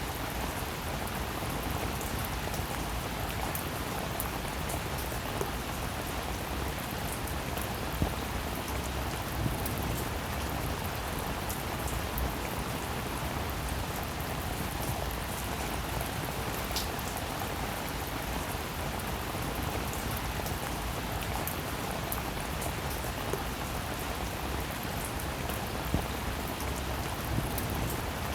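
Steady rainfall, an even hiss of drops with a few sharper individual drop hits standing out now and then.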